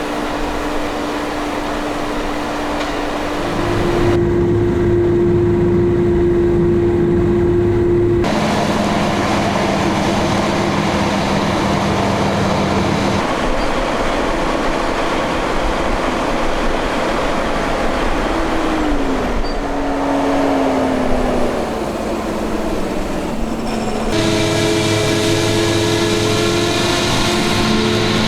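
Forage harvester and tractor engines running steadily during whole-crop silage chopping, with steady whining drive tones. The sound changes abruptly several times, and a short falling whine comes about two-thirds of the way through.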